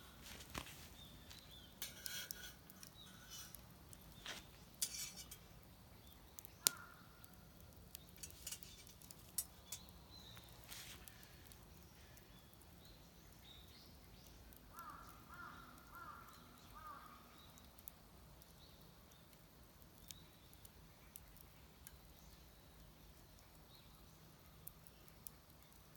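Quiet outdoor ambience with scattered sharp clicks and snaps in the first half, and a crow cawing four or five times in the distance about fifteen seconds in.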